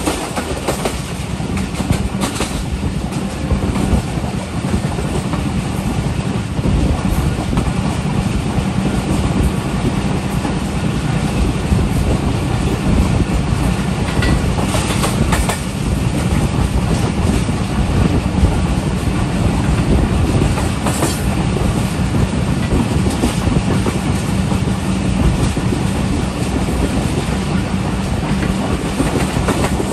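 Passenger train running at speed, heard from aboard: a steady rumble of wheels on rails, with a few sharp clacks as the wheels cross rail joints.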